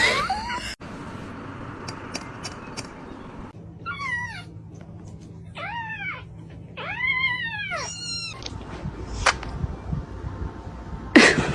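A cat meowing four times in a row, each meow rising and then falling in pitch, with the last one sweeping upward.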